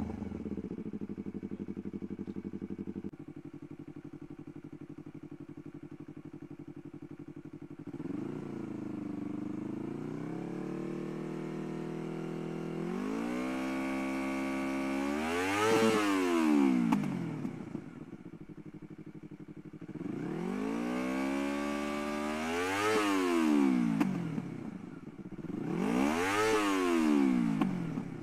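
Motorcycle engine running through a GPR Carbon aftermarket racing silencer, idling steadily for several seconds before a small blip of the throttle. Three longer revs follow, each rising in pitch and falling back to idle, the last near the end.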